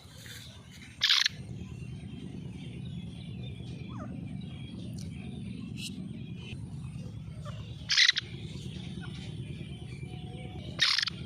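Female partridge calling: three short, loud, harsh calls, about a second in, around eight seconds in and near the end, with fainter chirps between, over a steady low background hum.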